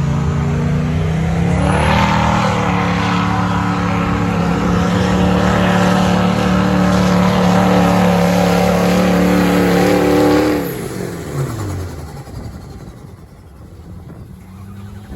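Diesel pickup truck engine pulling under full throttle: it climbs in pitch about two seconds in and holds steady at high revs for about eight seconds under load, then drops away sharply near the end as the throttle comes off, leaving a quieter rumble.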